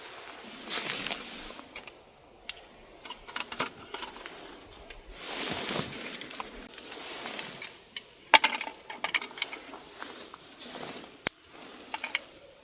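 Camp gear being handled at close range: bursts of rustling with scattered small clicks and metallic clinks, two sharper clicks in the second half.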